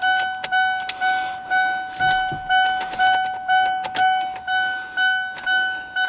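A 2002 Ford Explorer's dashboard warning chime dinging over and over, about two chimes a second at one steady pitch, the usual alert for a key in the ignition or a door left open.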